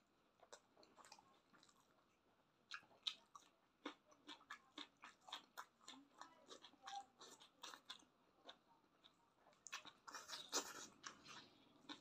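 Close-up sound of a person biting and chewing cooked chicken feet: a quiet start, then from about three seconds in a run of short, sharp mouth clicks at an uneven rate, thickest near the end.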